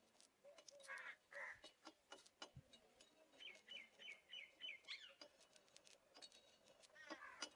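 Near silence with faint birdsong: a small bird repeats a short chirp about six times in quick succession around the middle, with a few faint clicks scattered through.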